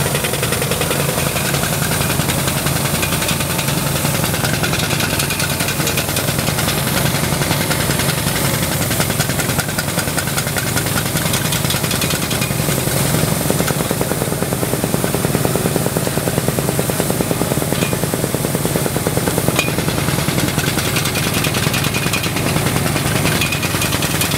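Engine-driven drilling machine for petroleum exploration running steadily, with a fast, even rattle.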